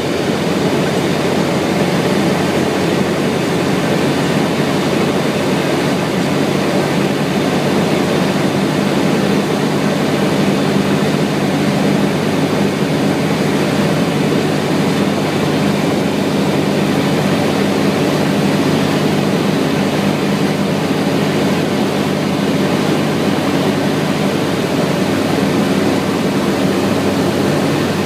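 Cessna 152's four-cylinder Lycoming engine and propeller running steadily through a landing approach: a loud, even drone with a low steady engine tone under the rush of noise.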